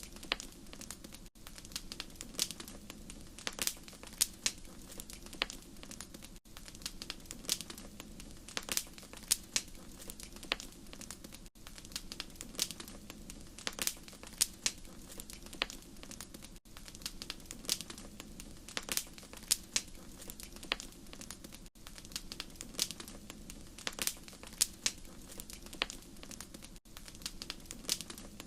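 Wood fire crackling: a steady low hiss with many sharp snaps and pops at irregular intervals. A short recording repeats about every five seconds, with a brief dip at each seam.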